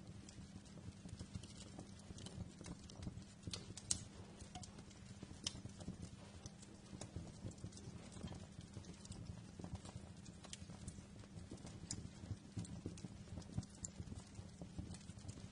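Wood fire in a fireplace crackling: irregular sharp pops and snaps over a low, steady rumble, with one louder pop about four seconds in.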